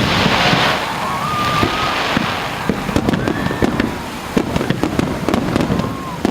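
Fireworks going off in quick succession over the sea: many sharp bangs and crackles over a rolling low rumble, with a few short rising whistles.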